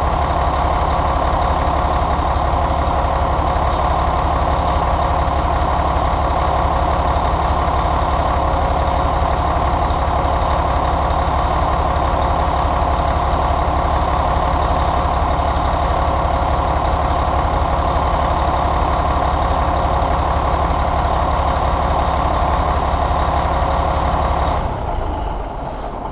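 Caterpillar 3176 inline-six diesel engine running steadily at an even speed, then dying away near the end.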